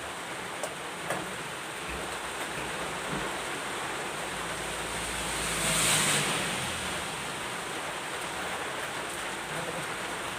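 Steady rain falling, swelling briefly louder a little past the middle, with a few faint knocks.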